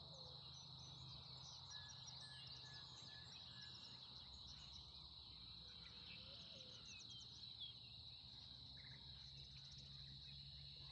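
Faint outdoor ambience: birds chirping and singing over a steady high-pitched trill, with a low hum beneath.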